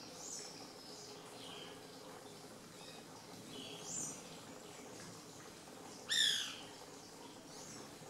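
Short, high bird calls at intervals of a second or two, the loudest a single rising call about six seconds in, over a faint steady low hum.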